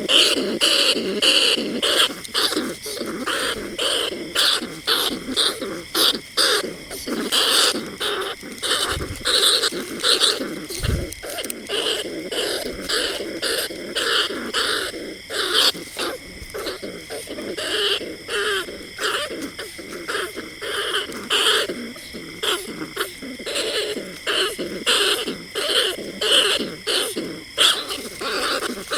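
Bandicoot rat calls: a continuous run of rapid, short squeaking chirps, several a second, without a break.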